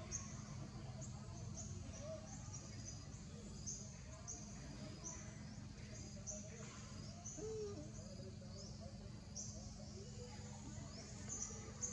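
A bird chirping over and over in short, high calls, one or two a second, over a low, steady background hum.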